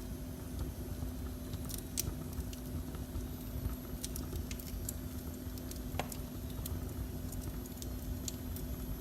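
Wood fire burning in a fireplace: irregular sharp crackles and pops over a low steady rumble of the flames, with a faint steady hum underneath.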